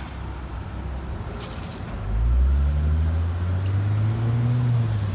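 A road vehicle's engine comes in loud about two seconds in, its low note rising slowly as it runs on.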